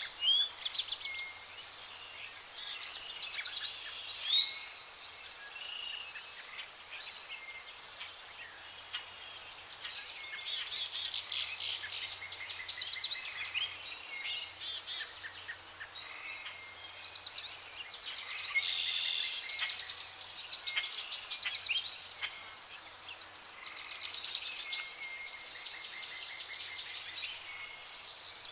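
Songbirds singing: repeated short phrases of rapid, high chirping notes every few seconds, over a steady background hiss.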